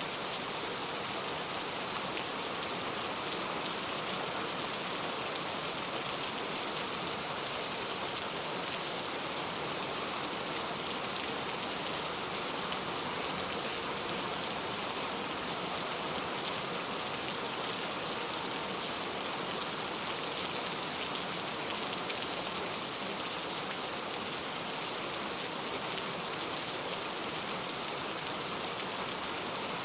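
Steady rain falling, an even, continuous patter of drops with no change in strength.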